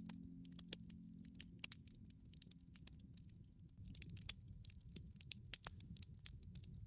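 Campfire crackling: irregular small pops and snaps over a soft low rumble.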